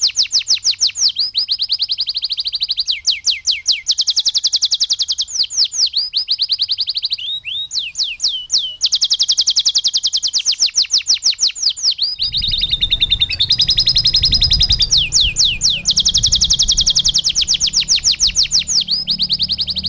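Domestic canary singing a long, loud song of fast trills: runs of quick, repeated down-slurred notes that change speed and pitch every second or two. A low rumble comes in underneath about twelve seconds in.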